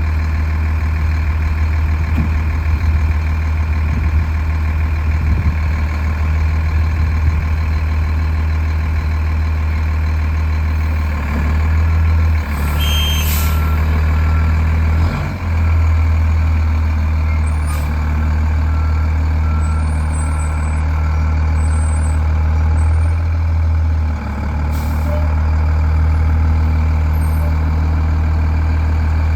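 Fire truck engine running with a steady, loud low drone that dips briefly twice. A backup alarm beeps evenly for about ten seconds midway, and a short hiss of air sounds near the start of the beeping.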